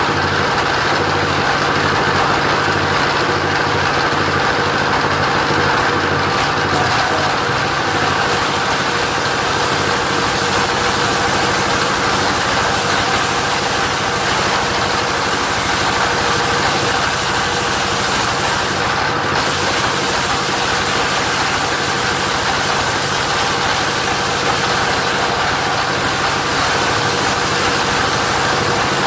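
Engine of a mobile sawmill running steadily at an even speed, with no change over the whole stretch.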